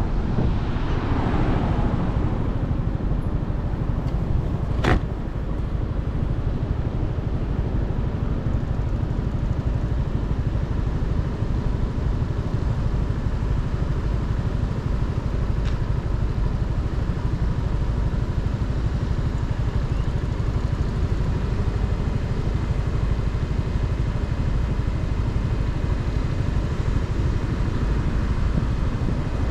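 Motorcycle under way: a steady low rumble of engine and riding noise, with a sharp click about five seconds in.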